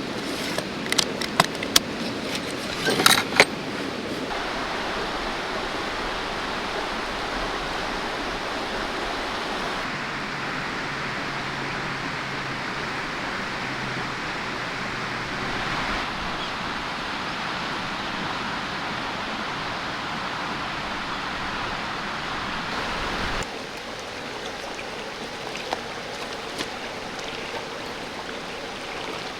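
Steady rush of a mountain river flowing over rocks. Sharp clicks and knocks come in the first few seconds.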